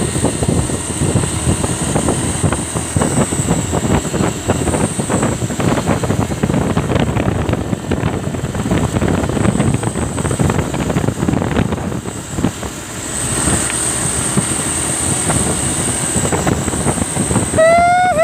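Truck driving on the road: engine and road noise run steadily and loudly. Just before the end comes a short pitched tone that rises and then dips.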